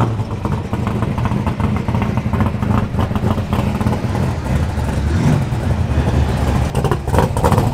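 Drag race car engines running in the staging lanes: a low, uneven rumble.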